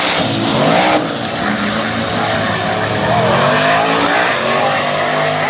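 A very loud car engine held at high revs, its pitch wavering up and down, with tyres spinning and squealing against the pavement, as in a burnout.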